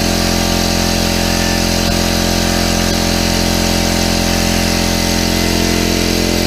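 Harbor Freight Central Pneumatic 26-gallon, 1.8 HP oil-less air compressor running steadily under load, pumping its tank up past 80 psi toward 100 psi.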